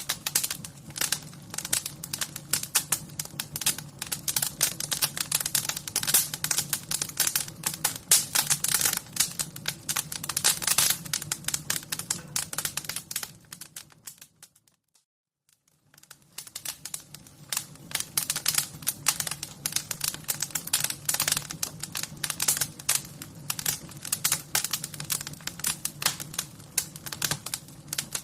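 Fire crackling steadily with many sharp pops and crackles over a low steady hum. About halfway through it fades out to near silence for a second or two, then fades back in.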